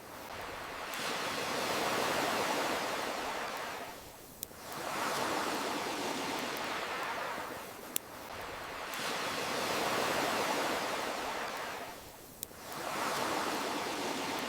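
Ocean waves washing in and drawing back in a slow, even rhythm, a swell about every four seconds. A single sharp click sounds in each lull between swells.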